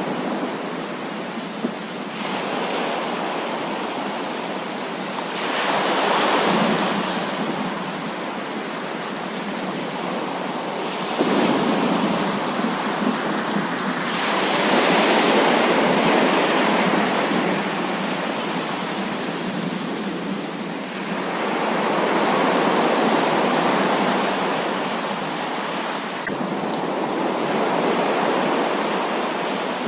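Heavy rain falling steadily, with rolls of thunder swelling and fading several times. The loudest roll begins sharply a little over a third of the way in.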